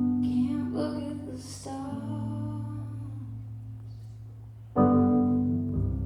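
Slow piano ballad played live: full chords struck at the start, about two seconds in and again near five seconds in, each left to ring and fade.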